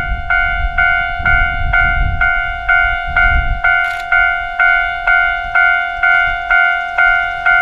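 Railway level-crossing warning bell ringing, a steady clang struck about twice a second, signalling an approaching train. A low rumble sits under it in the first half.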